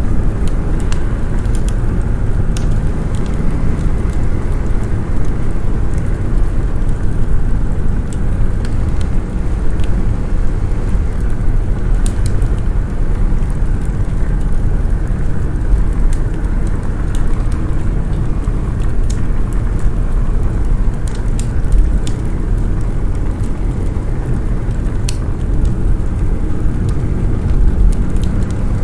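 Wood fire crackling, with scattered sharp pops, over a steady deep rumble of snowstorm wind.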